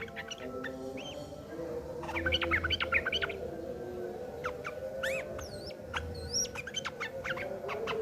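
Yellow-vented bulbuls calling in a harsh, fighting chatter: quick clusters of short chirps about two seconds in, then rising and falling whistled notes a few seconds later, over steady low background tones.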